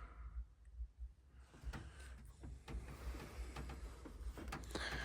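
Faint, scattered clicks and light knocks of things being handled and moved about inside an old truck cab, over a low rumble.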